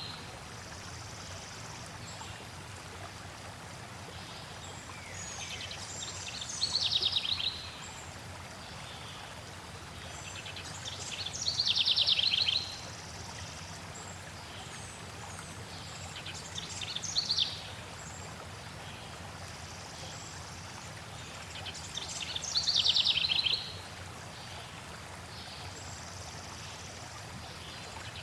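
A songbird singing short, fast trilled phrases about every five seconds over a steady rush of flowing water.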